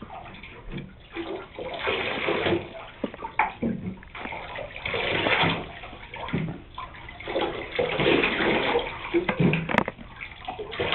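Running water splashing over a cat in a bathtub as she is wetted down for a bath, coming and going in several surges.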